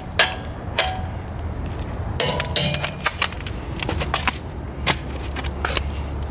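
Scattered light clicks, knocks and clinks of metal parts being handled, one clink near the middle briefly ringing, over a steady low hum. No impact driver is hammering.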